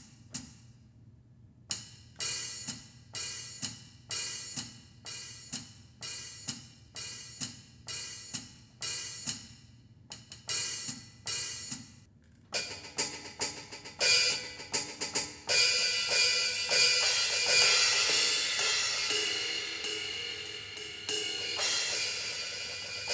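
Hi-hat sounds from a Donner DED-200 electronic drum kit, played on its hi-hat pad and pedal. Evenly spaced strikes come at about two a second, then after a brief break the playing gets faster, with cymbal wash ringing on through the last several seconds.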